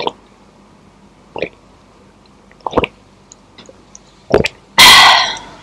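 Close-miked swallowing gulps, one every second or so, then a loud breathy exhale, the loudest sound, near the end.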